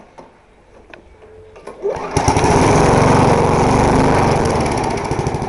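Old lawn mower's 3.5 hp engine firing up: quiet for about two seconds, then it catches suddenly and runs loud with a fast, even beat, starting to fade near the end. The owner says it takes a while to start and run properly.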